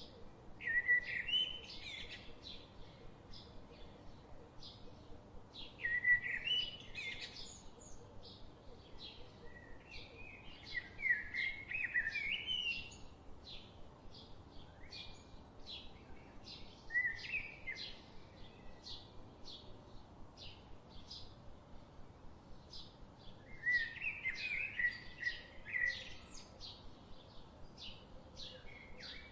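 Birds singing short warbled phrases every few seconds, over a steady run of short chips about twice a second.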